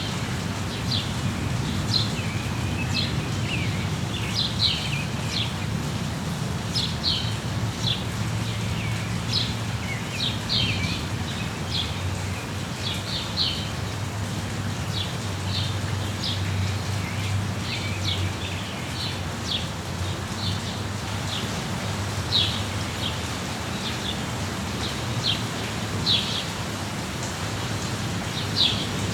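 Steady rain with small birds chirping over it: short, high chirps, one or two every second.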